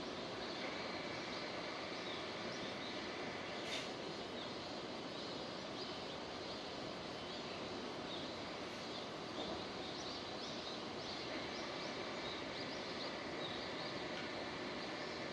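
Steady rain falling, an even hiss with many small drop ticks and one sharper tick about four seconds in. A faint steady high tone is heard near the start and again from about eleven seconds on.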